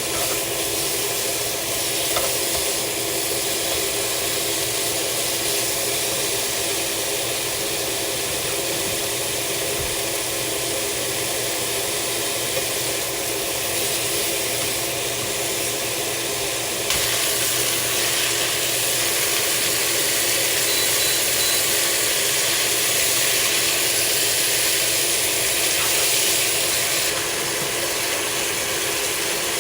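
Steady loud noise with a low hum, its tone shifting once, about seventeen seconds in.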